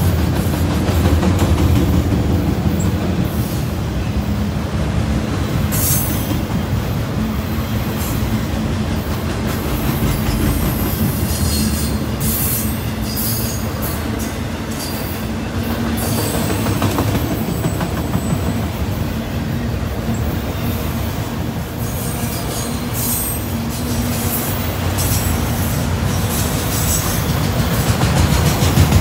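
Freight train of enclosed autorack cars rolling past: a steady rumble of steel wheels on the rails, with short high-pitched wheel squeals now and then.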